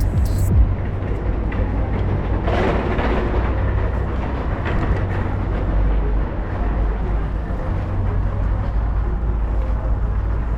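Subway train running, a steady low rumble with rail noise.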